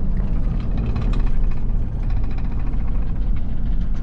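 Truck running, a steady low rumble.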